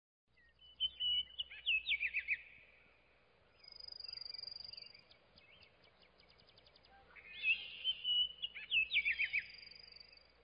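A songbird singing two similar phrases of bright whistled notes, each ending in a quick run of falling notes, with a high thin trill between them.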